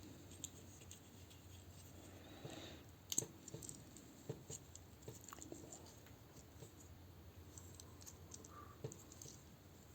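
Faint clicks and light taps of small plastic toy parts and packaging being handled on a desk, with a sharper click about three seconds in.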